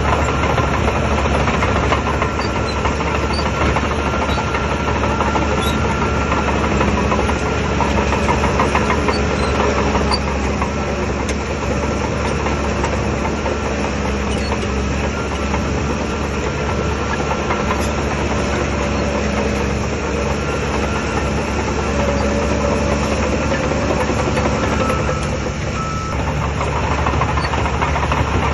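Shantui DH17 bulldozer's diesel engine running steadily at work.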